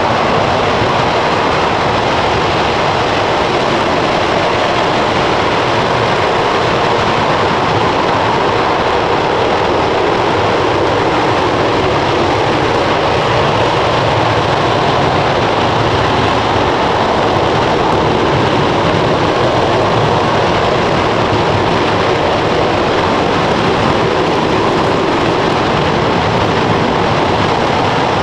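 RS-25 liquid-hydrogen/liquid-oxygen rocket engine firing steadily during a static hot-fire test: a loud, constant, unbroken rush of noise with no change in pitch or level.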